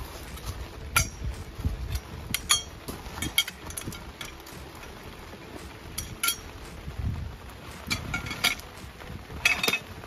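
Metal awning poles clinking and knocking together in short, sharp bursts as they are handled and packed into their bag, over steady rain.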